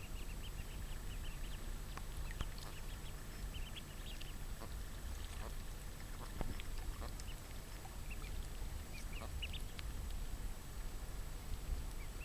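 Birds calling in quick runs of short, high chirps, over a steady low rumble with scattered faint clicks.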